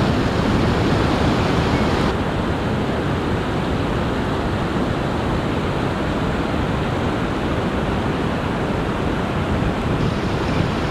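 Arkansas River running high in flood: a steady rush of fast water.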